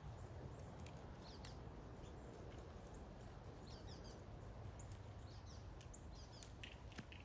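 Faint outdoor ambience: a low, steady wind rumble with a few short, high bird chirps scattered through it.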